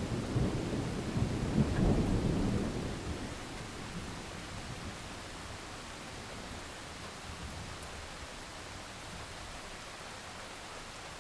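Thunder rumbling low and heavy over steady rain, the rumble fading away over the first three seconds and leaving only the even hiss of rainfall.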